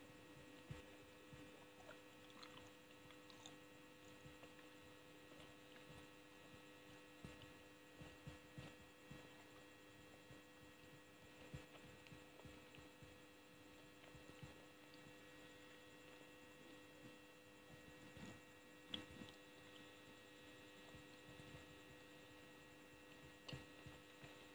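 Near silence under a steady electrical hum, with faint scattered soft clicks and taps of a mouth chewing gummy candy close to the microphone.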